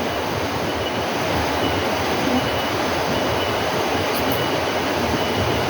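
A steady, loud rushing noise with no distinct events.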